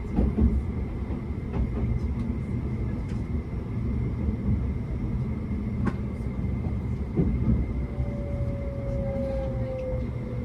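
Tobu Spacia X limited express heard from inside the car, with a steady running rumble of wheels on the rails and a sharp click about six seconds in. Near the end a whine starts and falls steadily in pitch as the train slows on its approach to Kasukabe.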